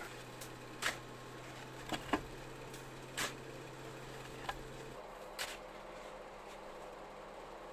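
A shovel digging into deep snow around a stuck Jeep's tires: about six sharp, irregular scrapes and knocks, over a faint low hum that stops about five seconds in.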